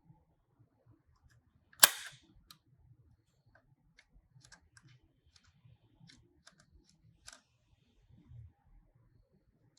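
Diecast toy cars being handled: one sharp click about two seconds in, then scattered faint light clicks and taps.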